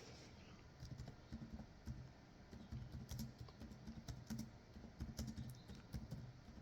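Typing on a keyboard: faint, irregular key clicks.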